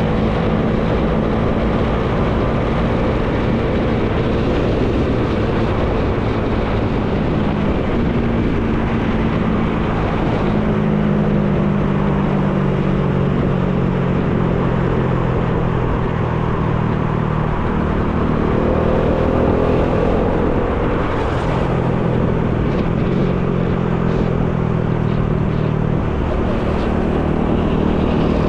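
Bajaj Dominar 400's single-cylinder engine running on the road, with heavy wind noise on the microphone. The engine note shifts a few times as speed changes, stepping down about ten seconds in and rising again later.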